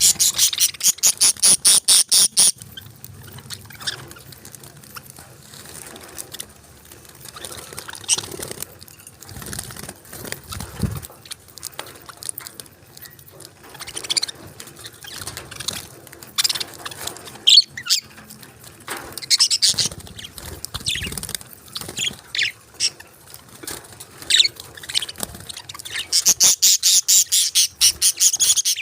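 Budgerigars chirping and chattering, with scattered high chirps in between. A fast run of sharp, repeated high chirps comes at the start and again near the end, about six or seven a second.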